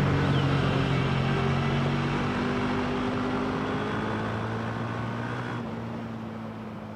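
Motorcycle engine running steadily and fading away, as if the bike is riding off into the distance.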